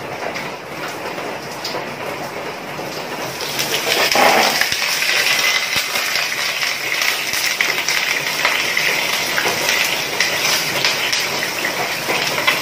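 A whole chicken frying in hot cooking oil in a frying pan: the sizzle jumps up sharply about four seconds in as the chicken goes into the oil, then carries on steadily.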